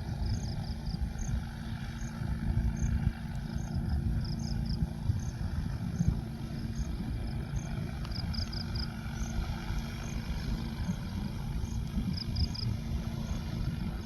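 Agricultural spraying drone's rotors running steadily, heard as a dense low rumble with a faint steady hum. A train of short high chirps repeats over it, about one every half second, some in quick groups of three.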